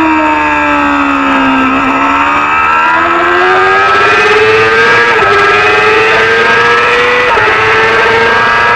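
Small-displacement Supersport 300 racing motorcycle engine: it winds down for about two seconds as the bike slows, then pulls hard again, with the pitch climbing and dropping briefly at two upshifts.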